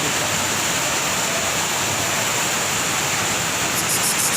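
Steady rush of water from a torrential downpour: heavy rain and flowing rainwater, with no let-up. Near the end a quick run of faint, high-pitched ticks sounds over it.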